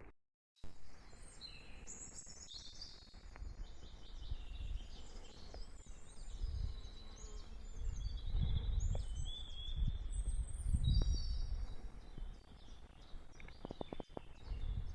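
Several small songbirds chirping and trilling busily. Underneath is a low, gusting rumble of wind on the microphone.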